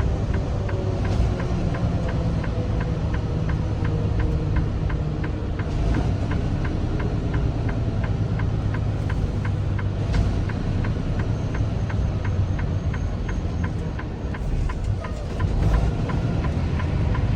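Semi truck running, heard from inside the cab as a steady low rumble, with a regular fast ticking of about three clicks a second over it.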